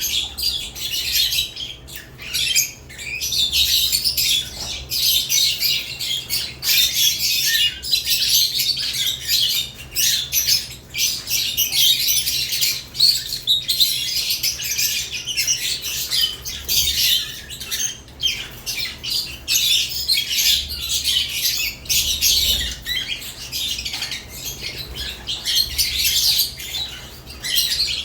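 Caged lovebirds chattering: a dense, unbroken stream of high-pitched chirps and squawks overlapping one another.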